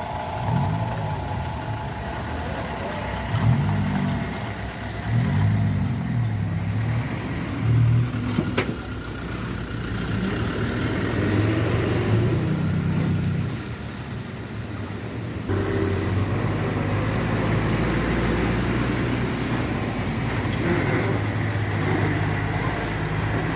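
Truck engines accelerating, their pitch rising and falling several times. About fifteen seconds in the sound changes abruptly to a steadier engine hum.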